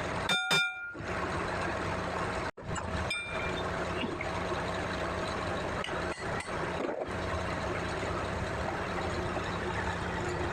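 Hitachi LX50 wheel loader running steadily, with two short beeps just after the start.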